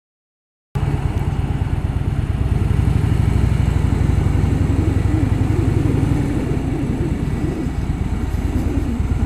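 Harley-Davidson Softail Fat Boy's V-twin engine running with a loud, fast, even pulse. The sound cuts in abruptly just under a second in and cuts off just as abruptly at the end.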